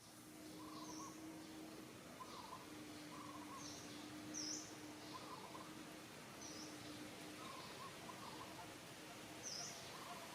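Wild birds chirping: short high chirps every second or two, with lower, softer calls between them, over a steady background hiss and a faint on-and-off hum.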